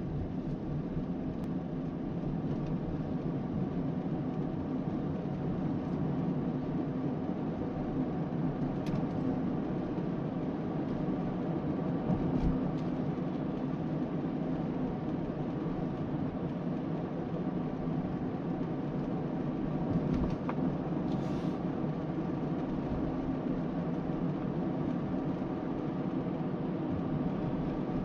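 Suzuki Spacia kei car at highway speed: steady road and running noise with a persistent droning tone that never lets up. This is the abnormal noise that sounds continuously at highway speed.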